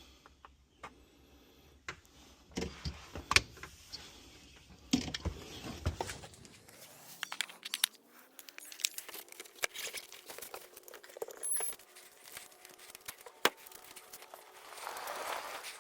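Keys jangling, with irregular clicks and knocks of handling throughout.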